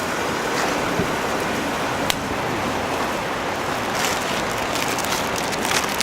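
Food frying over a wood fire: a steady sizzling hiss with a sharp pop about two seconds in and more crackles and pops near the end.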